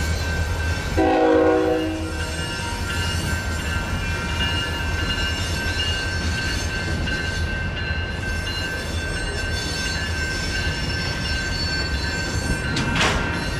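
Freight cars rolling through a grade crossing with a steady low rumble and a steady high wheel squeal, while the crossing bell rings. A short locomotive horn blast sounds about a second in, the loudest moment, and a brief sharp squeal comes near the end.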